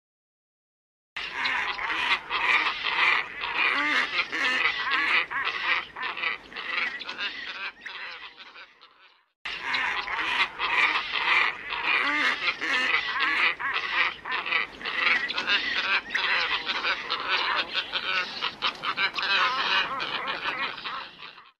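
Flock of black ibises calling: a dense chorus of overlapping calls from a bird-lure recording. It starts abruptly about a second in and fades out near nine seconds, then starts again abruptly half a second later.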